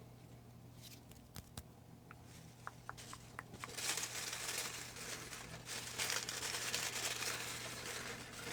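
Paper slips rustling and crinkling as a name slip is handled: a few light clicks at first, then steady crinkling from about four seconds in.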